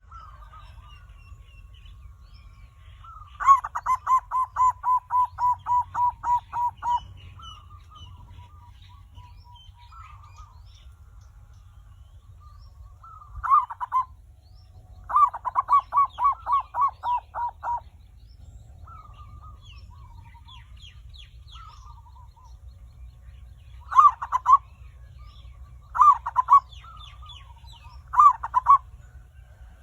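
Zebra dove (perkutut) singing: two long runs of quick, even coos, about three a second, then a few short phrases near the end.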